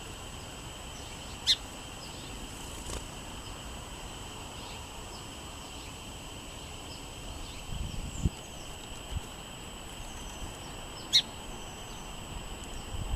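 Outdoor songbird sounds: faint, scattered bird chirps over a steady high drone, with two sharp, loud chips about ten seconds apart. A brief low gust of wind hits the microphone a little past the middle.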